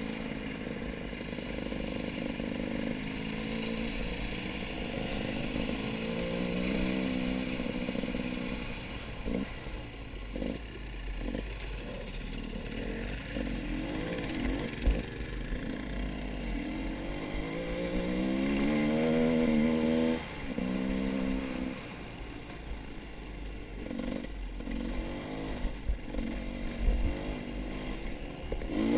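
A vehicle engine running and revving up and down over and over, with some clattering.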